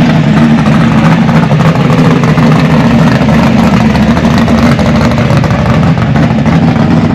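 A car's loud engine and exhaust running steadily with a deep, even note.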